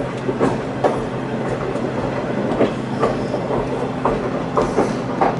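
Passenger train rolling along the track: wheels clicking irregularly over rail joints above a steady low drone.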